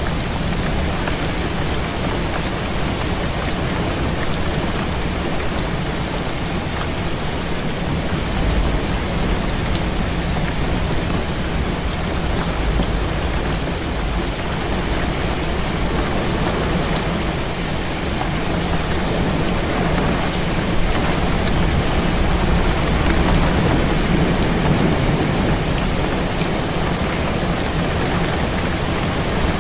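Heavy rain falling steadily on a window, an even hiss of drops, with a low rumble swelling up twice: about a third of the way in and again past the middle.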